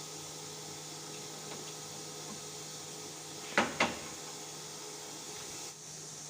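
Two sharp knocks in quick succession, a fraction of a second apart, just past the middle, over a steady hiss and hum.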